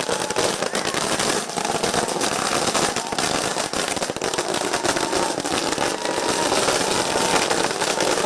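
A long string of firecrackers going off, a dense rapid crackle of bangs without a break.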